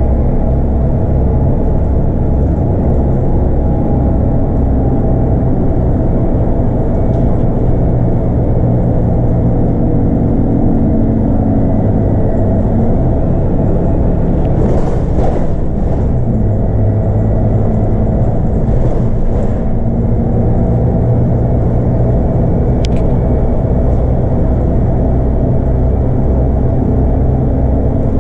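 The Scania DC9 five-cylinder diesel of a Scania K230UB bus running steadily under way, heard from on board, with its engine note dropping about halfway through. Two short hisses come in the middle, and a single click follows a few seconds later.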